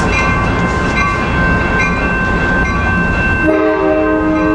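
Amtrak bi-level passenger cars rolling past the platform with a steady wheel rumble, while the train's Nathan K5LA air horn chord sounds again about three and a half seconds in.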